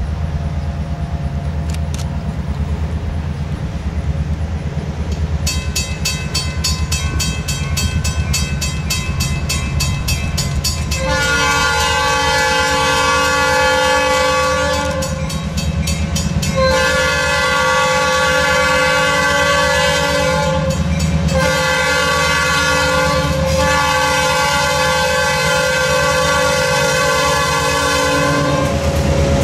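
EMD GP18 diesel locomotives running with a steady low engine rumble while a bell rings. The locomotive's chord horn then blows the grade-crossing pattern: two long blasts, a short one and a final long one.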